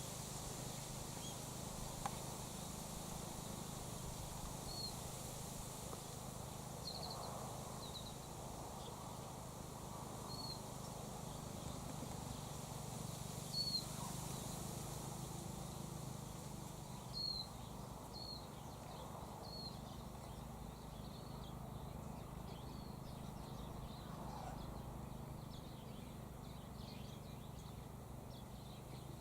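Quiet outdoor ambience with a steady low hum, and short high bird chirps scattered through it, a second or more apart.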